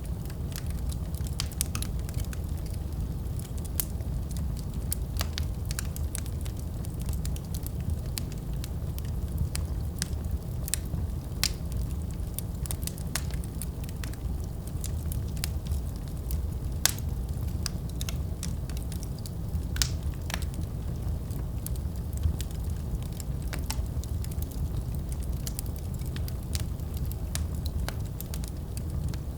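Fireplace fire crackling: a steady low rumble under frequent, irregular sharp pops and crackles.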